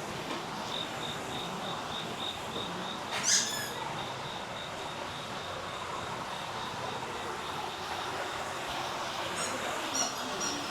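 Summer night ambience: an insect chirping in fast, even pulses over a steady hiss. About three seconds in comes a short, loud squeak that slides down in pitch. Near the end, other high chirps join in.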